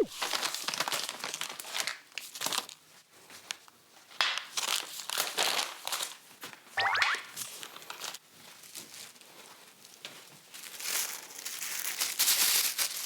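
Plastic packaging crinkling and rustling in irregular bursts as seasoning powders are handled and measured out. A brief rising whistle-like tone sounds about seven seconds in.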